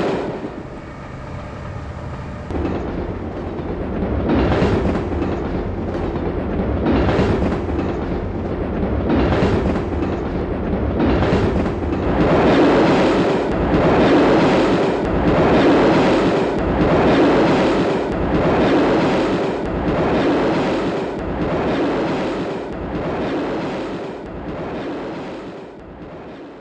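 Passenger train running past on the rails, its noise swelling and easing in a regular rhythm about every second and a half, then fading out at the end.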